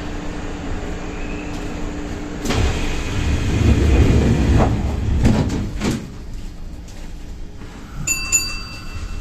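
Passenger train's sliding doors closing at departure: a loud rush and rumble of about three seconds that ends in a couple of knocks as the doors shut, then a short pair of electronic beeps near the end.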